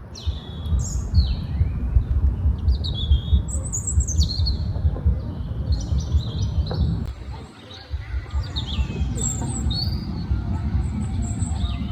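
Birds chirping, with many short calls that fall in pitch, over a loud, uneven low rumble that briefly drops away about two-thirds of the way through.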